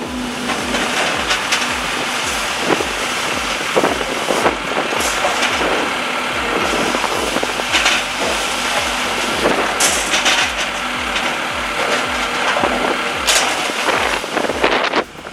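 A heavy machine running with scattered sharp knocks and cracks, under background music with a steady low beat.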